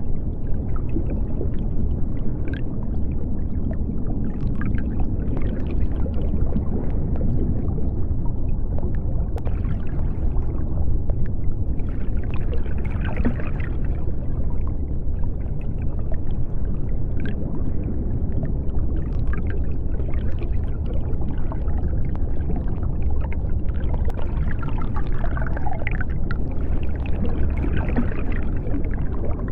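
Underwater ambience: a steady deep rumble of water, with scattered faint bubbling and gurgling above it.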